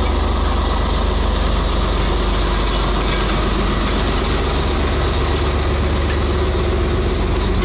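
Large diesel engine idling with a steady low hum and an even noise above it.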